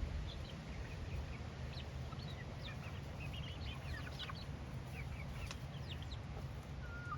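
Chickens clucking and chirping in short, scattered notes, over a low steady rumble.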